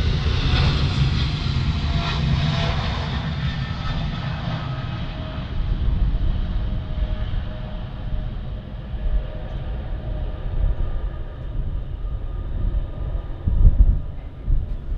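Jet aircraft passing and moving away, its engine noise loudest at first, with a whine that falls in pitch and fades over the first few seconds, leaving a steady distant rumble. Wind buffets the microphone near the end.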